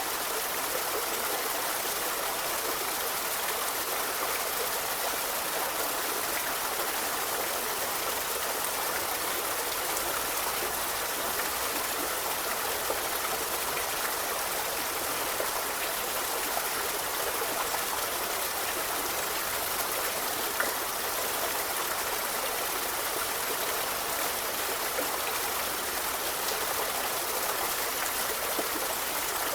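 River water running steadily, a continuous rush with small splashes and trickles here and there.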